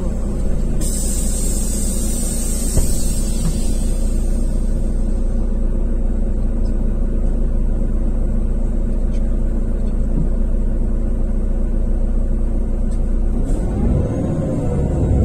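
Irisbus Crossway 12M's Iveco Cursor F2B Euro 4 six-cylinder diesel running at a steady pitch under way, heard from inside the bus. A hiss comes in about a second in and dies away over a few seconds, and music comes in near the end.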